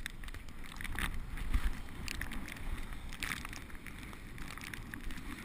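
Bicycle being ridden: a steady low rumble of wind and tyres on the microphone, with irregular clicks and rattles from the bike.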